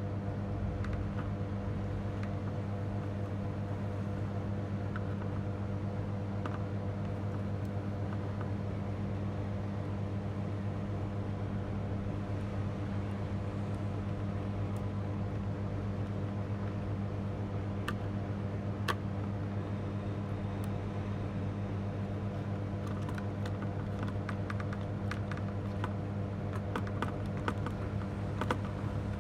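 A steady low electrical hum, with scattered light clicks and taps that come more often in the last few seconds.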